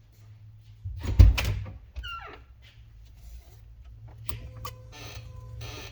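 1997 Ford F250's windshield wipers switched on under a newly replaced wiper control module, their motor and blades running with a run of rubbing sweeps in the last two seconds. A heavy thump comes about a second in, the loudest sound, followed by a short falling squeak.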